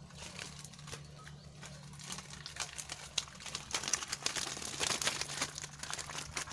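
Rustling and crinkling of a bag being handled, a dense run of small crackles that grows louder about two seconds in, likely as the catch is brought out to be shown.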